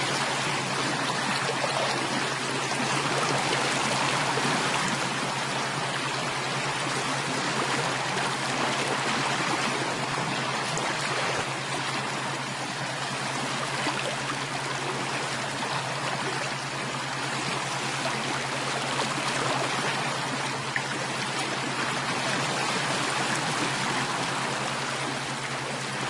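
Steady running water, like a flowing stream, with no breaks or separate events, and a steady low hum beneath it.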